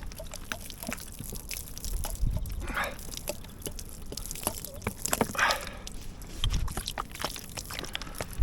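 Water splashing and dripping off a motorcycle exhaust as rust cleaner is rinsed away, with two longer splashes about three and five and a half seconds in among scattered drips.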